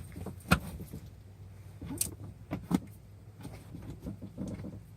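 Handling noise inside a car: a few sharp knocks and clicks with some rustling as the floor carpet and its plastic clips are worked loose. The loudest knock comes about half a second in, with others near two seconds and just under three.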